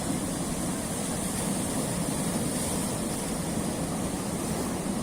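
Sea waves washing against a rocky shore: a continuous low wash with no single breaking crash standing out.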